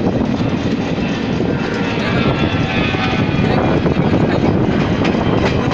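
Garib Rath Express passenger train running: a loud, steady rumble and rush of wheels on track.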